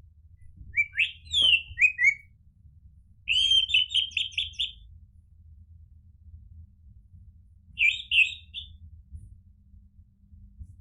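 Orange-headed thrush singing in three short bursts of clear whistled notes: quick rising and falling whistles, then a fast run of about six notes a second, then a brief phrase near the end.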